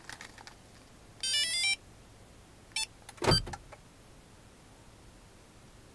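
Electronic chime of quickly stepping beeps from a Viper 5902 car security and remote-start system, then a short beep, then one loud clunk about halfway through; a few small clicks at the start.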